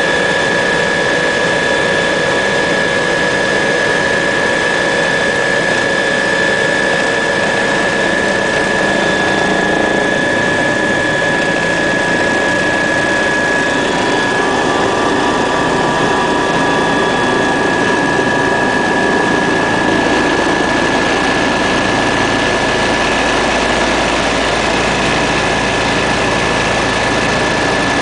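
Helicopter's turbine engine running steadily: a constant high whine over loud, dense engine noise.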